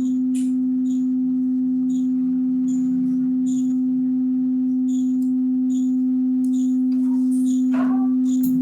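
A steady electronic test tone at 256 Hz, the note Sa, held unchanged as the lower end of an octave band.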